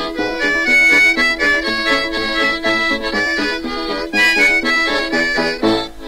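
Instrumental break in a lively French-Canadian folk song, led by accordion playing a quick, bouncing melody over a steady oom-pah bass.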